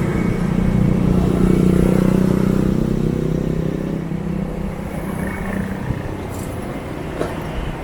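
Motorbike engine running in city traffic. Its hum swells to its loudest about two seconds in, then eases off, over steady traffic and road noise.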